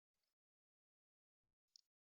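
Near silence, broken by a few faint, brief crackles; the loudest comes near the end.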